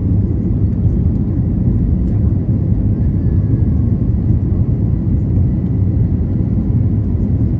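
Airbus A321neo engine and airflow noise heard inside the passenger cabin: a steady, low rumble with no changes.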